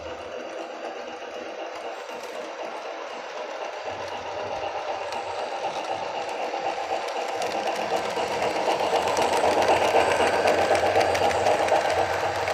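HO scale brass Southern 4-6-2 Pacific model steam locomotive running under a DCC sound decoder, its speaker playing fast, rapid steam chuffs that grow louder from about four seconds in.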